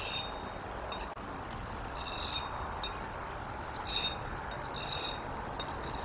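Short, high bird calls, each a brief clear chirp, repeated every second or two over a steady outdoor hiss.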